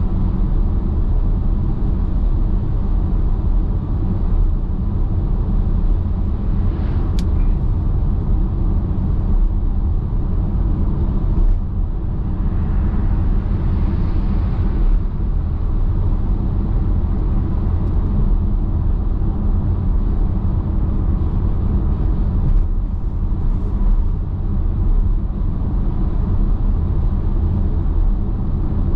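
Steady low rumble of a car driving at highway speed: tyre and road noise with engine drone. One sharp click comes about seven seconds in, and a swell of hiss rises and fades around twelve to fifteen seconds.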